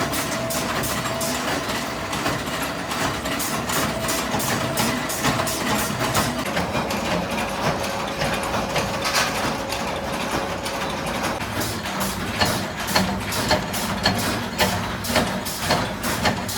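Factory machinery running steadily, with rapid repeated knocks several times a second that come thicker in the last few seconds, and a faint steady hum in the first half.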